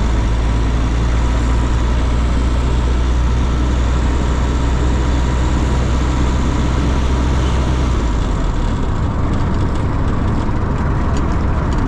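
Steady low rumble of a running vehicle engine, which changes about eight seconds in.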